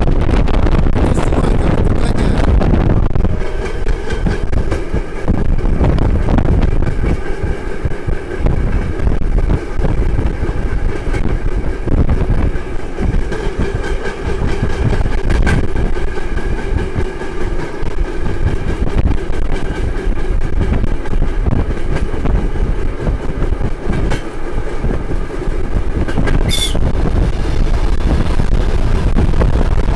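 TD5 rail trolley converted to electric drive with a brushless motor, running along the track. The wheels rumble over the rails under a steady electric motor whine, with a short sharp sound near the end.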